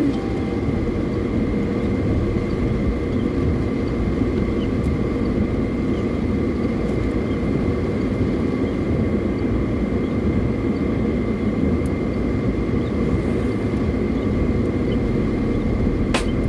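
Car driving at highway speed, heard from inside the cabin: a steady low rumble of road and engine noise with a faint steady whine over it.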